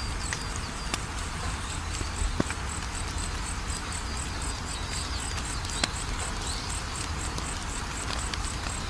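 Wood fire crackling, with a few sharp pops, over a steady bed of low noise. A high, evenly repeating insect chirp like a cricket's runs underneath.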